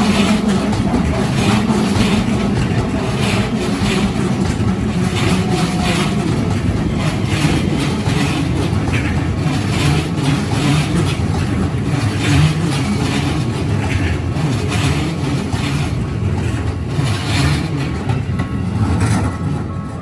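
Keikyu Line electric train passing through a level crossing: a steady low rumble with wheels clattering over the rails throughout.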